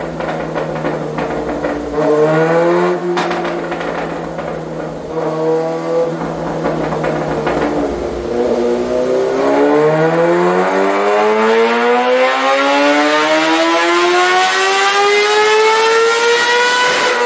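Kawasaki ZX-6R inline-four engine with an M4 full exhaust, running on a dyno: it holds steady low revs with a couple of small blips. About ten seconds in it begins a wide-open-throttle pull, its pitch climbing smoothly and steadily for about seven seconds.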